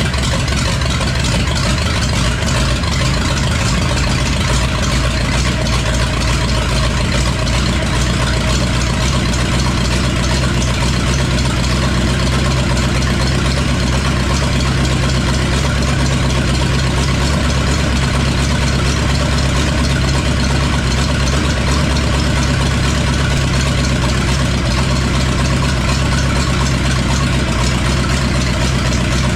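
1982 Ford F-100's newly swapped-in 5.8-litre V8 running steadily at idle, open with no exhaust system fitted.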